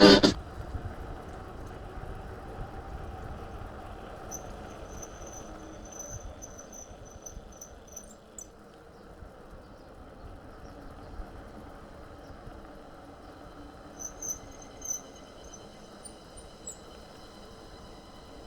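Outdoor background noise with high, rapid chirps: a run of them about four seconds in and another short cluster near the end, such as an insect or small bird makes.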